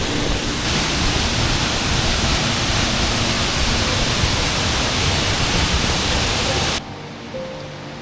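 Waterfall: a loud, even rush of falling water. It cuts off abruptly near the end, leaving quieter background music with held notes.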